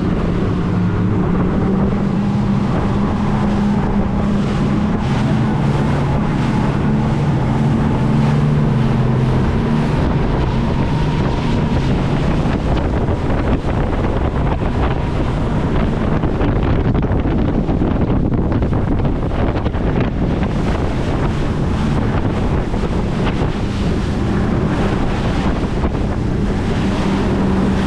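Speedboat under way: a steady low engine drone beneath heavy wind buffeting on the microphone and rushing water from the hull.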